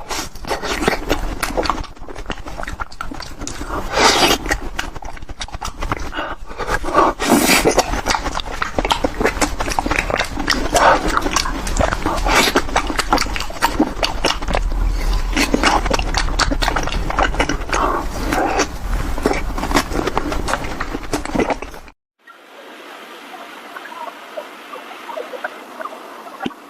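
Close-miked eating: loud, fast chewing and mouth smacking, dense with short wet clicks. About 22 s in it cuts abruptly to a quieter, thinner-sounding stretch.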